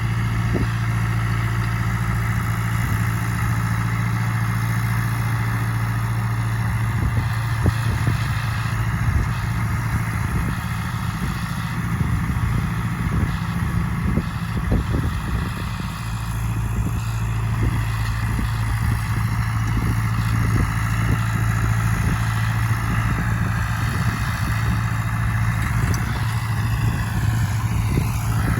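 Tractor engine running at steady working revs while driving a hay tedder, with light rattling over the steady hum.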